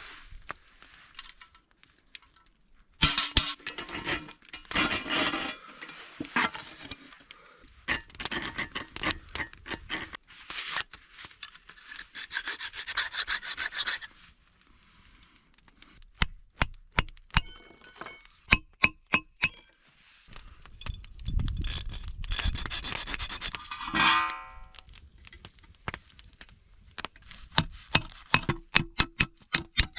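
Scrap sheet metal being cut and shaped with a hand tool: bouts of rasping, back-and-forth strokes. Runs of sharp strikes on the metal, each ringing briefly, come around the middle and near the end.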